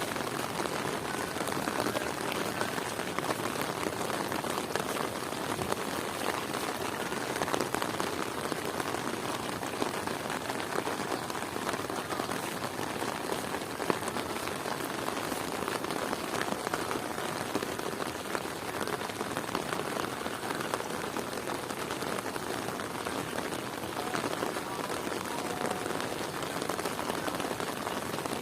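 Heavy rain falling steadily, a dense patter of drops hitting the ground and surfaces all around.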